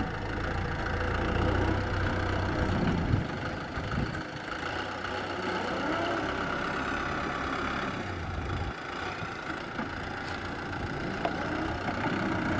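Kubota M6040SU tractor's diesel engine running steadily at low revs, its low hum strongest in the first few seconds and again near the end.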